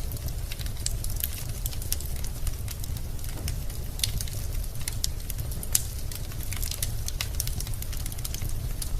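Wood fire in a fireplace crackling: frequent irregular sharp pops and snaps from the burning logs over a steady low rumble.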